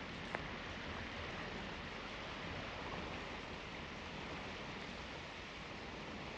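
River water running steadily, an even rushing, with one light click just after the start.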